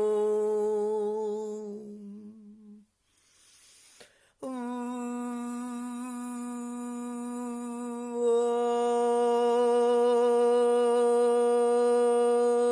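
A person humming long held notes. The first note fades out about two seconds in, there is a brief breath, and then a second, slightly higher note is held steadily, growing louder about eight seconds in.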